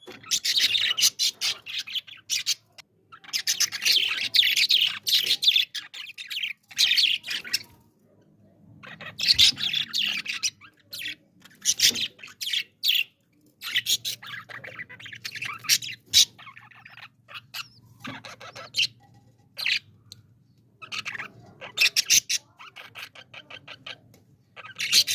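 Budgerigars chattering and chirping in quick, high bursts that come and go every second or two, with the odd squawk. A faint steady low hum runs under the second half.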